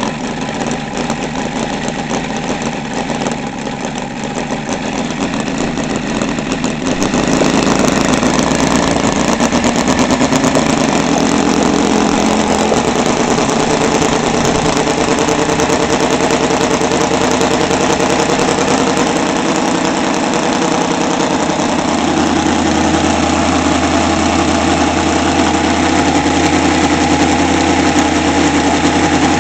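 Seidel 7-70 seven-cylinder model radial engine running on a test stand, driving a 24x10 propeller during break-in. It gets louder and its note changes about seven seconds in, then holds steady at the higher speed.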